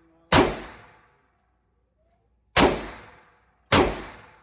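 Three gunshots fired at a shooting range, irregularly spaced: one shortly after the start, then two about a second apart near the end. Each shot is sharp and loud, with an echo that fades over about half a second.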